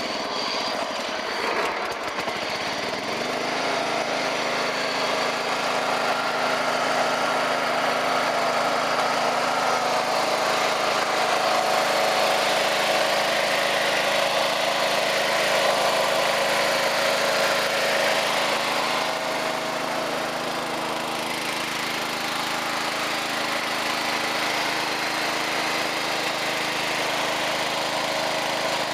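Engine cold-started after sitting unused since November: it catches in the first few seconds, its pitch climbing, then settles into a steady idle.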